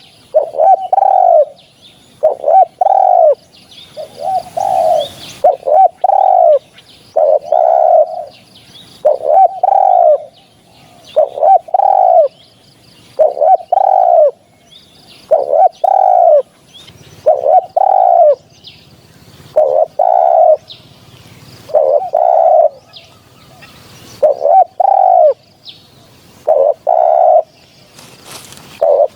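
Spotted dove cooing: loud, low arched coos repeated about every one to two seconds, with faint high chirps of other small birds behind.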